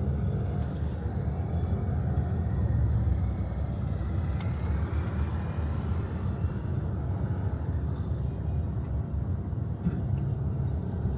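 Steady low rumble of road traffic and vehicle engine noise in busy city streets.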